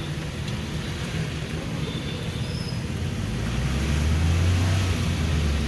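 Steady road and rain noise of a car driving on a wet road, a rushing hiss with a low rumble. A deeper engine drone swells from about three and a half seconds in.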